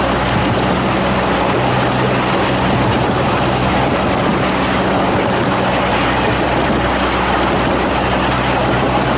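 Steady rolling rumble of a miniature 15-inch-gauge railway's passenger cars running along the track at speed, with air rushing over the microphone.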